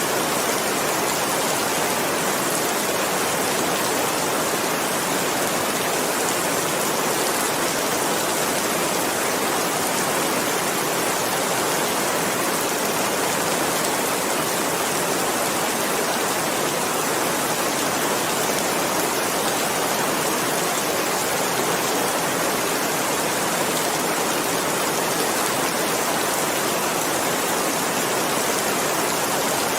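Steady, dense rainfall: an even hiss of countless drops with no distinct single drips or thunder.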